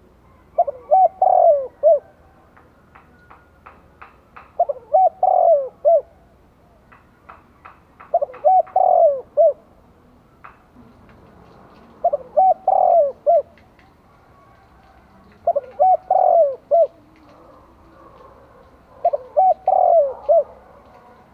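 Spotted dove singing its cooing song: a phrase of four or five short coos repeated six times, about every three and a half seconds. Faint short ticks can be heard between the phrases.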